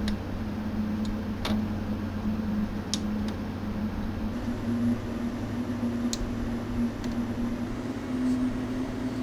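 Steady electrical or fan hum with a constant low tone, and a few faint light clicks.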